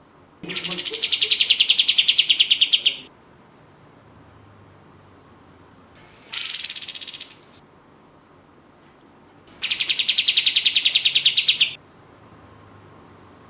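Kapas tembak (black-winged flycatcher-shrike) giving three rapid, rattling trills of quick high chirps. Each trill starts on a higher note and settles to a steady pitch. The first lasts about two and a half seconds, a short one comes in the middle, and a third of about two seconds comes near the end.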